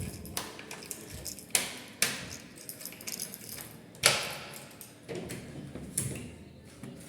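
A key rattling and turning in a door lock: keys jangling with several sharp metallic clicks, the loudest about four seconds in.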